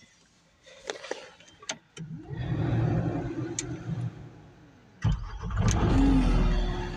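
A few light knocks, then a skid loader's engine is started: it catches about two seconds in and dies away, is started again at about five seconds, and keeps running.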